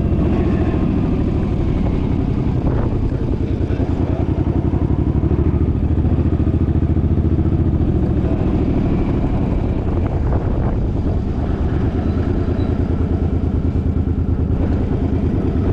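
Suzuki engine running steadily while under way, with wind buffeting the microphone.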